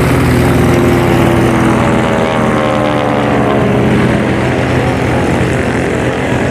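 SNJ Texan's Pratt & Whitney R-1340 radial engine and propeller running, with a tone that slides down in pitch about two to four seconds in.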